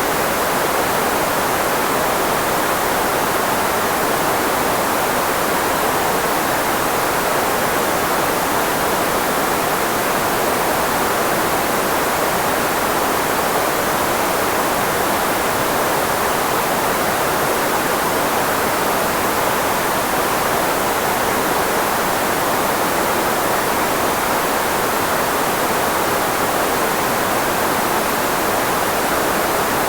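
Steady, unbroken filtered white noise (a speech-masking noise), with most of its weight in the middle of the voice range, like a constant hiss or rush of water.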